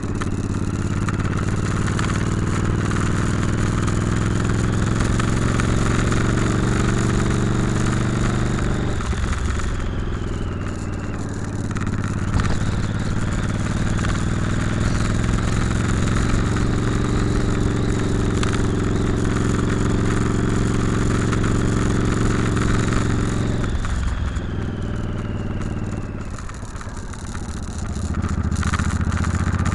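Motorcycle engine running steadily under way. Its note drops about nine seconds in, and again for a few seconds after the midpoint of the second half, as the throttle eases or a gear changes, then picks back up.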